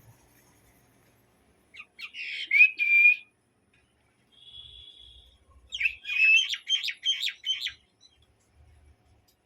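A myna calling: a short burst of calls with a rising note about two seconds in, a brief steady whistle around the five-second mark, then a quick run of notes lasting nearly two seconds.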